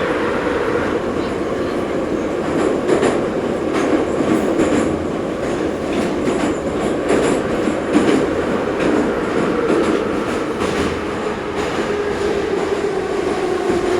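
Ezh3 metro car running through the tunnel: a steady rumble with scattered clacks of the wheels over rail joints, and a whine that falls in pitch near the end as the train begins to slow.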